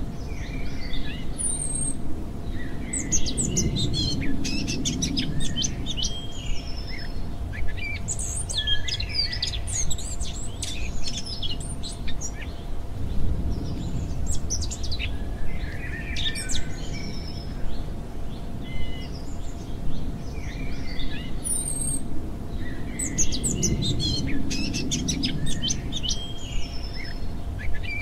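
Birdsong from a sunny-day nature-sounds recording: several small birds chirping and trilling in recurring bursts over a steady low rumble.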